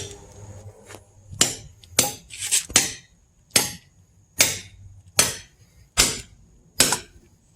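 A hammer striking a splitting wedge driven into a log, about ten sharp blows at an uneven pace.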